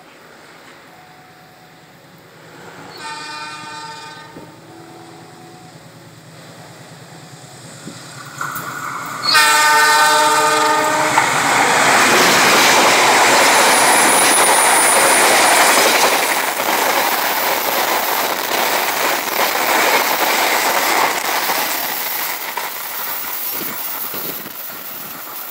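Argo Lawu express passenger train passing through a station. The diesel locomotive's horn sounds twice, a short blast about three seconds in and a longer, louder one near ten seconds. The train then runs close by with the loud rumble of its wheels on the rails, which fades over the last few seconds as it recedes.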